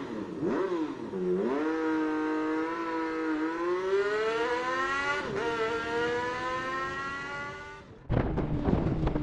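Motorcycle engine revving and accelerating, its pitch climbing, dropping sharply at a gear change about five seconds in, then easing off and fading. Near the end it cuts abruptly to a low rumble.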